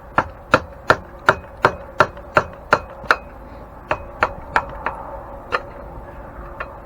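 Metal hammer blows chipping out old Babbitt bearing metal: a run of about nine sharp, even strikes at close to three a second, then a few lighter taps spaced further apart.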